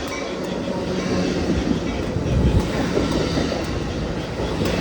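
Amtrak Pacific Surfliner passenger train rolling along the station track, with a steady rumble and wheels clattering over the rail joints.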